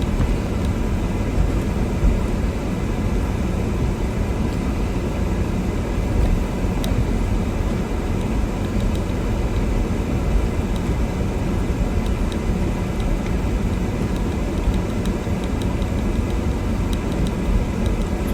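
Car driving slowly through snow in first gear with four-wheel drive engaged: a steady low rumble of engine and tyres.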